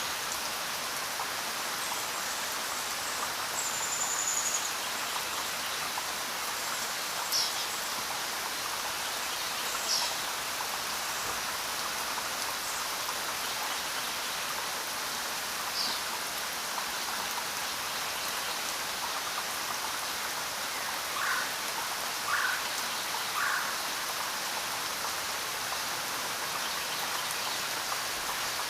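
Steady, even rain hiss falling on a forest road and foliage. A few short bird calls cut through it: a high whistle about four seconds in, brief downward chirps later, and three quick lower notes a little past two-thirds of the way through.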